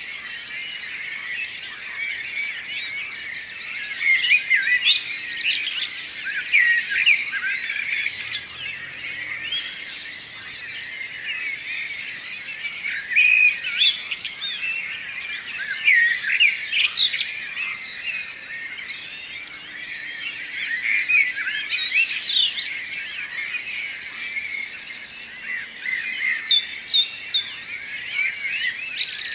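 Many songbirds singing and chirping at once in a morning dawn chorus: dense, overlapping high calls and short trills with no single bird standing out.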